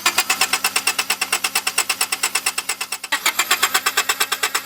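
Acura Integra's four-cylinder engine cranked over by the starter without catching, since its fuel injectors are unplugged: a fast, even chatter of pulses with a brief break about three seconds in.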